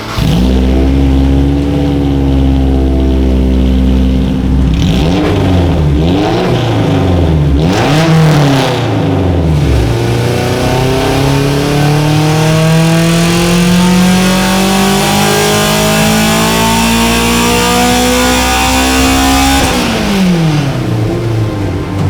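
Honda S2000's four-cylinder engine through a full titanium header and catback exhaust. It runs steadily at first, is revved up and down several times, then climbs steadily in pitch for about ten seconds before the revs drop sharply near the end.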